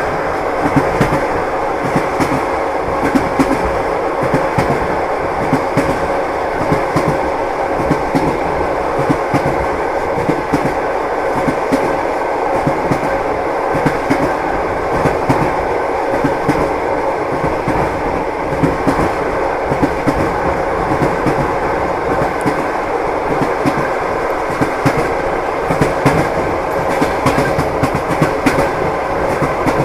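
Train wheels clacking over rail joints with a continuous rumble of the moving train: a repeating clickety-clack over steady running noise.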